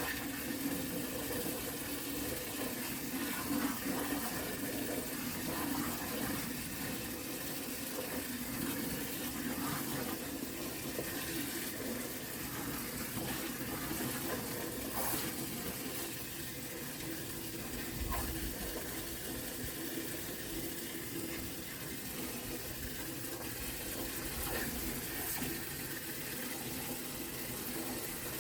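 Water running steadily into a bucket as a compost tea bucket is filled.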